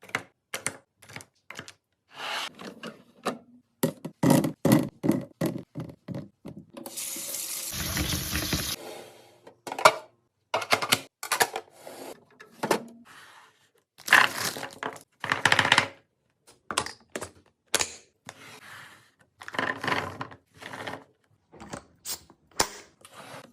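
Containers and packages being handled and set down during a fridge restock: a string of short clunks, taps and rustles, with about two seconds of running water about a third of the way in.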